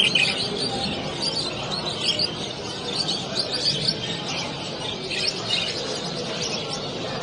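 Many caged songbirds chirping and singing at once, a dense, continuous chatter of short high chirps over a low background murmur of a crowded exhibition hall.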